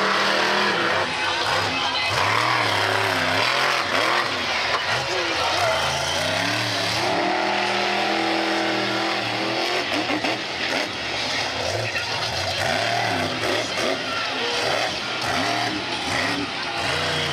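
Monster truck engine revving hard, its pitch climbing and dropping again and again as the truck drives.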